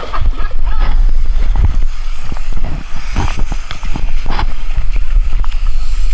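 Loud, uneven rumbling buffeting with scattered knocks, typical of wind and handling noise on a camera microphone.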